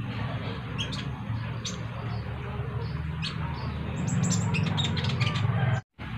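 Kolibri ninja sunbirds calling in short, high chirps: scattered at first, then a quick run of chirps about four seconds in, over a steady low hum. The sound drops out for a moment near the end.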